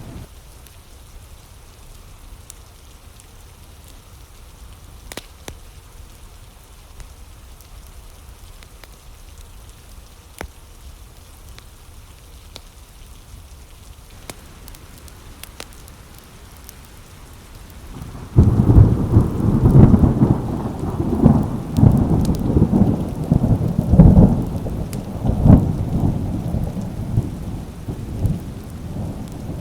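Steady rain with scattered sharp ticks. About eighteen seconds in, a sudden loud clap of thunder breaks into a long, pulsing rumble that slowly fades near the end.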